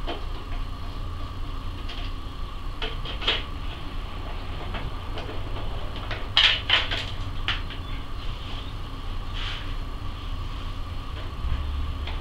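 Scattered light clicks and scrapes of a screwdriver working screws out of a scooter's front fender, with a cluster of louder clicks about six to seven seconds in, over a steady low hum.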